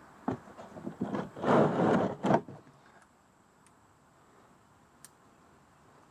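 A short run of knocks and clatter from parts and tools being handled during an oil filter change, with a louder rustling scrape in the middle, then quiet apart from one faint click.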